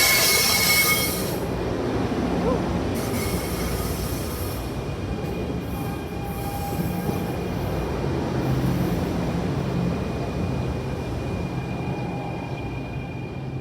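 Train passing on the rails: a high-pitched squeal for about the first second, then a steady rumble of cars rolling by that fades toward the end.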